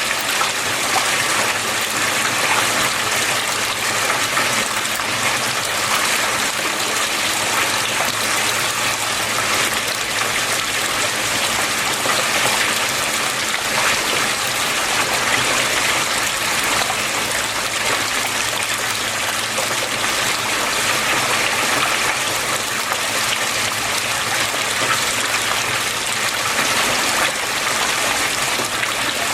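Water flowing steadily, an even rushing and trickling with no breaks.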